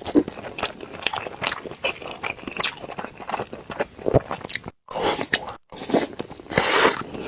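Close-miked chewing and biting of a mouthful of rice bowl: a rapid run of small crunches and wet clicks. The sound cuts out briefly twice past the middle, and a longer noisy smear comes near the end.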